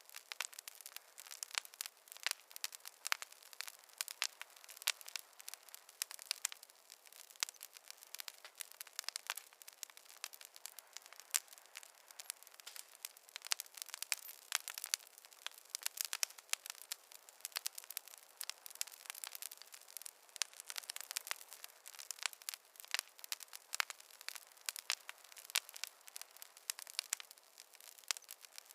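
Fireplace fire crackling: a dense, irregular run of sharp pops and snaps, several a second, with no low rumble underneath.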